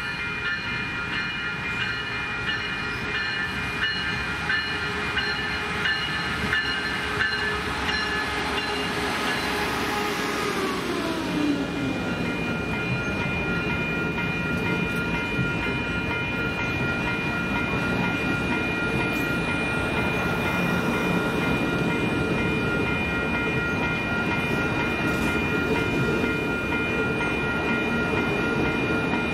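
A train running close by: a broad rumble with several steady whining tones over it. About ten seconds in, some of the tones slide well down in pitch while others hold steady.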